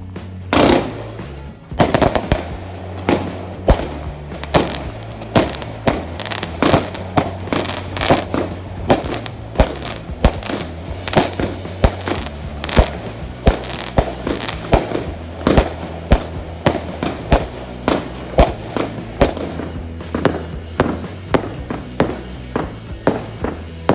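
Fireworks going off in a rapid, continuous barrage, a sharp bang roughly every half second or faster, with background music playing underneath.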